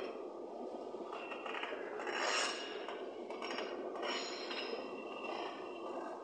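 Freight train boxcars rolling past on a curve: a steady rolling rumble with intermittent high metallic squeals of wheels on rail, loudest about two and a half seconds in.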